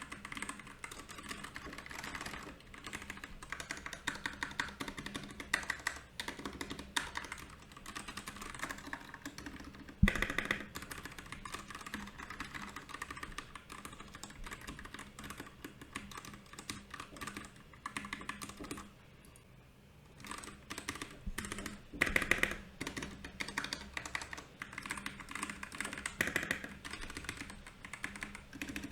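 Typing on a Royal Kludge RK68 mechanical keyboard: rapid key clicks in runs. There is one loud knock about ten seconds in and a short pause a little past the middle.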